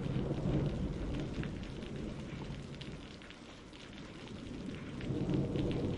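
Steady rain ambience, with a low rumble that fades around the middle and swells again near the end.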